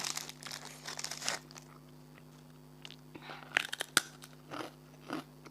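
Rice cracker being bitten and chewed close to the microphone: a dense run of crunching in the first second or so, then quieter chewing broken by a few sharp crunches in the second half.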